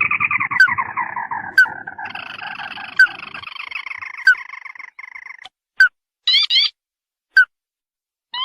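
Recorded crake calls, played as a lure: a long descending trill over the first five seconds or so, then short, separate rising notes about once a second, with a quick double note partway through.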